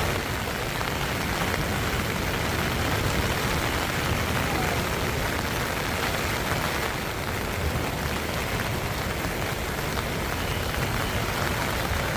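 Rain falling steadily and heavily, a dense, even hiss with no let-up.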